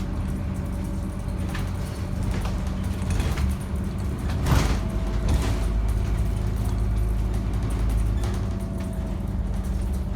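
Scania N230UD double-decker bus's five-cylinder diesel engine running steadily, heard from on board. Rattles and knocks from the body come through it, with one louder knock about halfway through.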